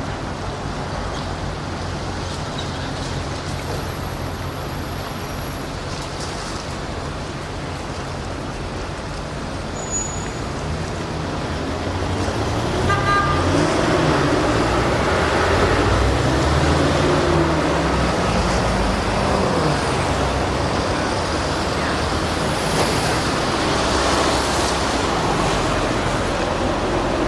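Pilot boat's engines droning over steady wind and water noise, growing louder about twelve seconds in, with the engine pitch rising and falling for several seconds.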